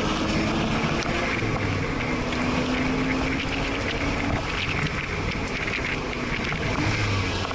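Porsche flat-six engine running at a steady, moderate pace, heard from inside the cabin over road and wind noise, its pitch shifting a little as the throttle changes.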